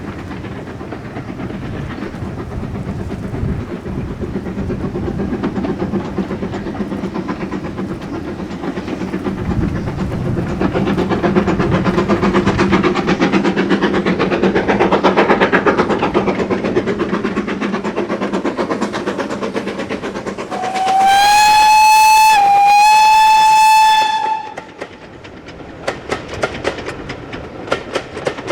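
Steam locomotive and train approaching and passing, the sound building to a peak partway through. About three-quarters of the way in, a loud steady steam whistle sounds for about three seconds with a brief break in the middle. Then the carriages' wheels click over the rail joints as they run past.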